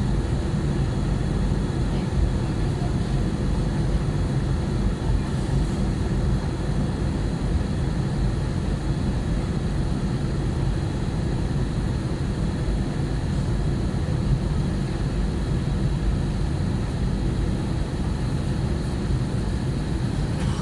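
Steady low rumble of an Airbus A320-family jetliner in flight, heard inside the passenger cabin: engine and airflow noise with a faint steady hum above it.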